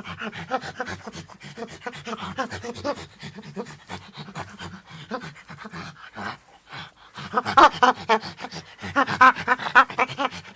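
Monkey calling: a fast run of short, breathy, pant-like calls, several a second, growing louder about seven seconds in.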